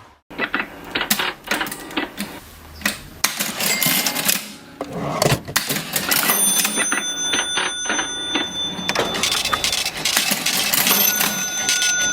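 Vintage mechanical cash register being worked: keys and levers clacking in quick, irregular clicks, with a ringing tone that starts about halfway through and comes in again near the end.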